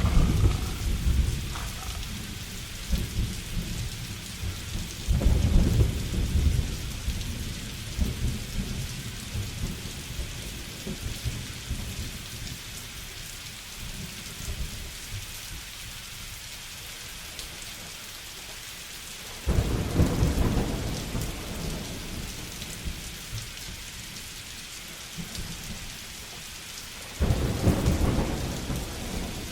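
Thunderstorm: steady rain falling throughout, with thunder rumbling near the start and again around five seconds in. Two sudden, loud thunderclaps come about twenty and twenty-seven seconds in, each rolling away over a few seconds.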